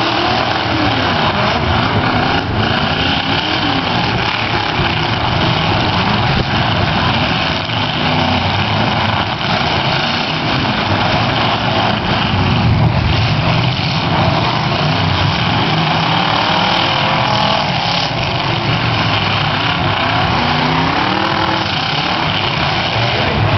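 Several 1980s-and-newer demolition derby cars' engines running and revving hard together as the cars ram and push one another, with a couple of sharp collision knocks partway through.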